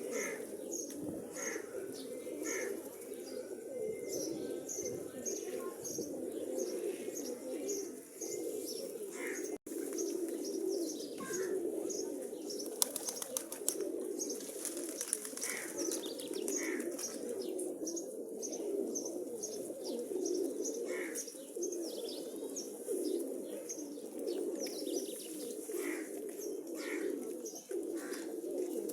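A flock of pigeons cooing steadily and continuously, mixed with many short, high chirps. A few brief sharp clicks come about halfway through.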